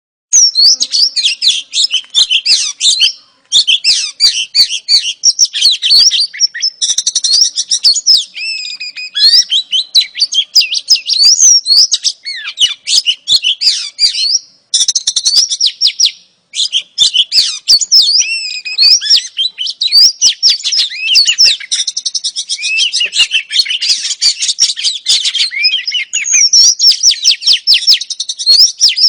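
Female Oriental magpie-robin (kacer) calling in a rapid, continuous chatter of high notes, with short breaks about three and a half seconds in and again around the middle. This is the kind of female call that bird keepers play to set male magpie-robins singing.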